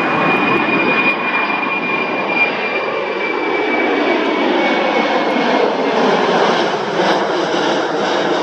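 Jet engines of a C-5M Super Galaxy running at high power on takeoff: a steady, loud roar with a high whine that slowly drops in pitch.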